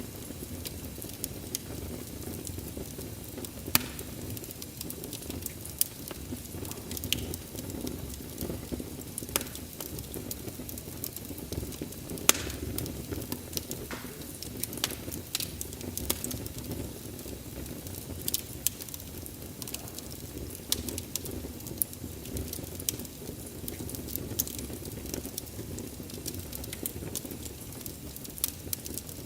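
Wood fire crackling: a steady low rumble of flames with frequent sharp pops and snaps of burning logs, the loudest a few seconds in and again about twelve seconds in.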